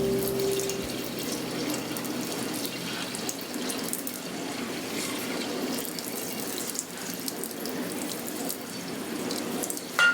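Kitchen tap running into a sink, a steady rush of water, with a short sharp knock near the end.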